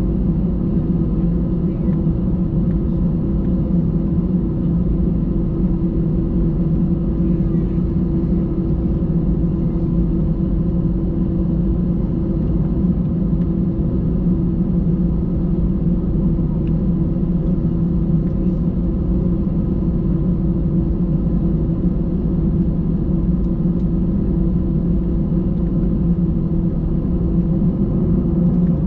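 Airbus A320 cabin noise heard from a window seat: the engines and airflow make a loud, steady drone with a low hum that does not change.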